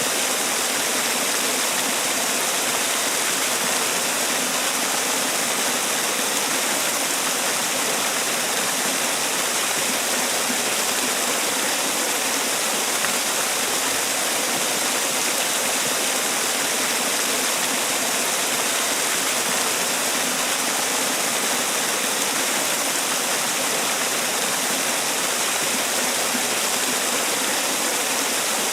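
Man-made waterfall: water falling and splashing in a steady, even rush, with no change throughout.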